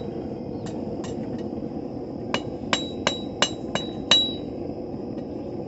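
Hand hammer striking a thin 1/4 inch steel rod on an anvil, each blow ringing briefly: two light strikes, then six in an even run of about three a second, straightening the rod.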